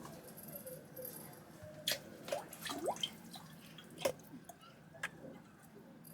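Water dripping and plinking: a few sharp drops, the loudest about two seconds and four seconds in, with short rising plinks between them.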